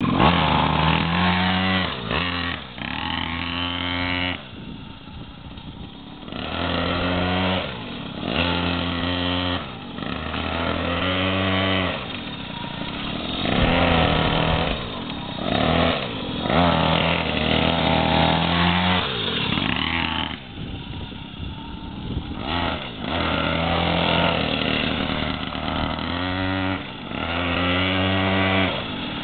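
Minibike's small engine revving repeatedly, its pitch rising and falling as it speeds up and slows, and growing quieter twice for a couple of seconds as it moves away.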